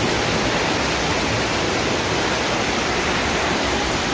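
Fast-moving floodwater rushing, a loud steady wash of water noise.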